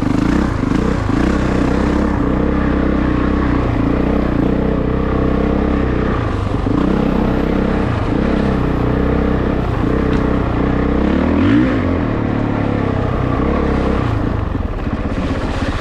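2022 Honda CRF450RX's single-cylinder four-stroke engine running under constantly changing throttle, its revs rising and falling, with a sharp rev-up and drop about two-thirds of the way through.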